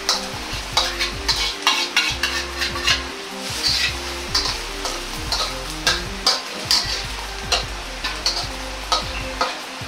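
Egg omelette frying and sizzling in oil in a wok, with the sharp scrape and tap of a spatula against the pan about once or twice a second as the omelette is pressed and shaped.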